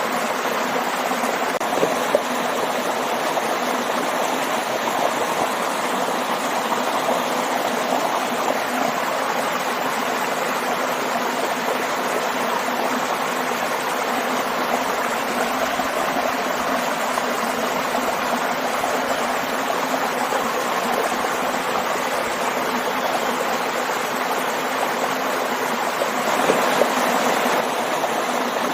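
Waterfall and stream water rushing and splashing in a steady, even flow, briefly a little louder near the end.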